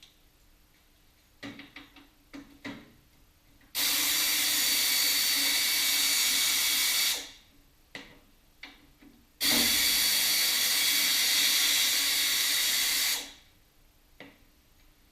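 Two long, even hisses of escaping pressurised gas, each lasting about three and a half seconds and starting abruptly, with a few light clicks and knocks of tools before and between them.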